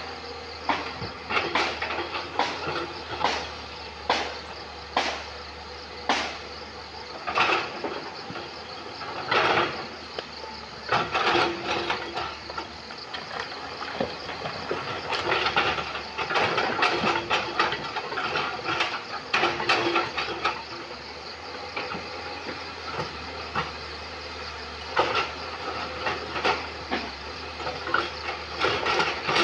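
Excavator engine running steadily while it works on river stones: sharp knocks come about once a second at first, then longer stretches of stones scraping and clattering.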